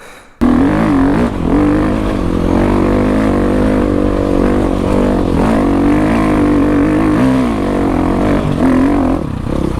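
Dirt bike engine running, its pitch rising and falling with the throttle. It cuts in suddenly about half a second in.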